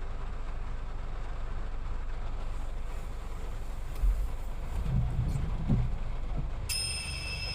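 Low, steady rumble of a vehicle on the move, with a few soft bumps about four to six seconds in. Thin, steady high tones come in near the end.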